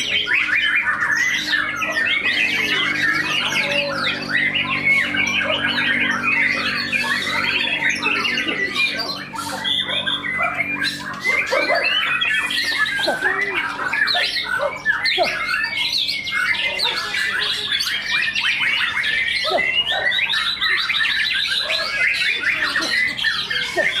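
Caged white-rumped shamas (murai batu) singing without pause, several loud, fast, varied phrases overlapping one another.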